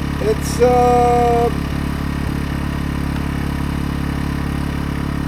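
AiVolt 1600-watt gas portable inverter generator's small engine running at a steady speed, out of eco mode and not yet under load.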